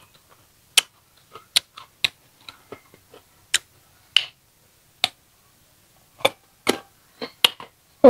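Crisp young ambarella (green cóc fruit) being chewed: sharp, irregular crunches, about two a second, with a short pause about five seconds in.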